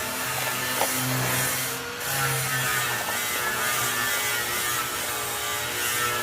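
Small electric motor whirring steadily with a mechanical rattle, pulsing slightly every second or so.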